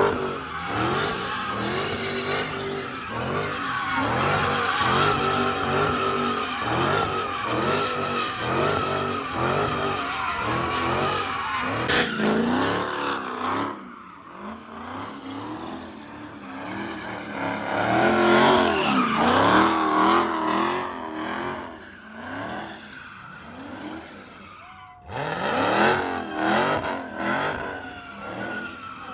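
A car's engine revving hard while its tyres squeal in a drift, the engine note rising and falling. It eases off about halfway through, surges again, and picks back up strongly near the end.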